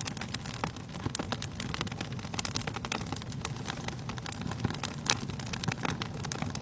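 Wood fire crackling in a fireplace: dense, irregular sharp pops and snaps over a steady low rumble of the flames.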